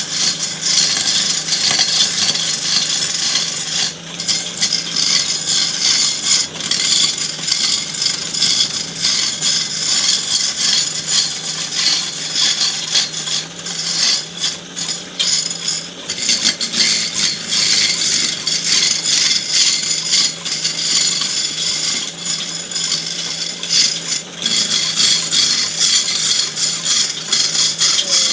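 Continuous scraping and rasping of a tool cutting into wood, with many small clicks and a faint steady hum underneath.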